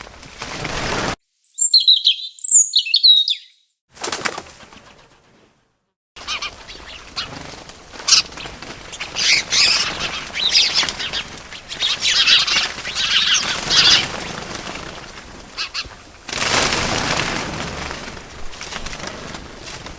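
Small birds chirping in short high bursts, mixed with fluttering wingbeats. The audio is a string of separate bird recordings with abrupt cuts between them: two loud, clean chirps near the start, a pause of silence, then a longer run of chirps over background rustle.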